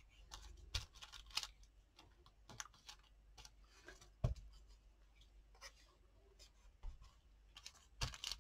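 Faint paper handling: soft rustles and scattered light taps as small pieces of paper are laid and pressed down on a journal page, with a sharper tap about four seconds in.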